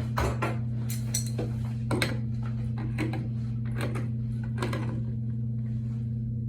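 Shower head being threaded by hand onto its metal shower arm: short metallic clicks and clinks, roughly one a second, over a steady low hum.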